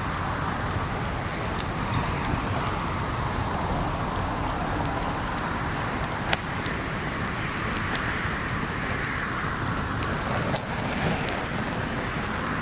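Wood campfire crackling, with frequent sharp pops (two louder ones about six and eight seconds in), over a steady rushing that swells and fades every few seconds.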